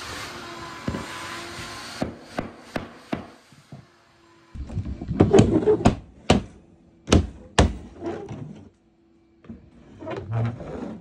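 A steady rushing noise cuts off about two seconds in, followed by irregular sharp knocks and thuds from flooring installation work.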